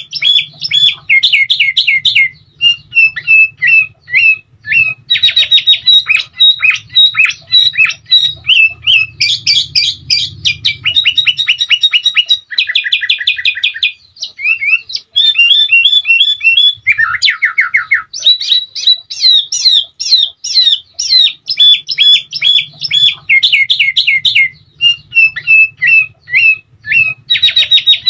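Sooty-headed bulbul (kutilang) singing without pause in a loud, busy song: quick runs of repeated falling whistled notes broken by fast rattling trills.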